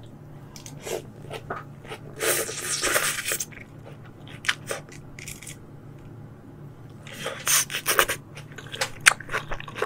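Close-miked chewing of a mouthful of crisp shredded yuzu salad. There are two louder spells of crunching, about two seconds in and about seven seconds in, with short wet mouth clicks between.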